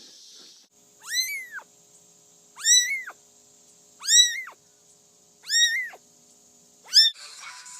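A cat meowing five times in a row, each meow rising then falling in pitch, about one every second and a half.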